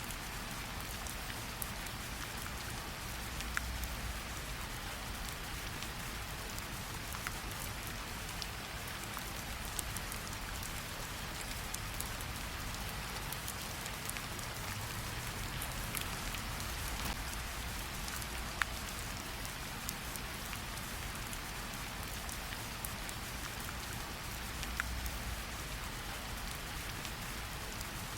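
Steady rainfall, with single drops now and then ticking sharply close by.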